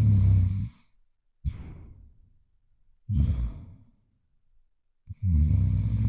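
Loud human snoring. A rattling snore opens the stretch, two softer breaths follow and fade out about a second and a half and three seconds in, and another loud rattling snore comes near the end.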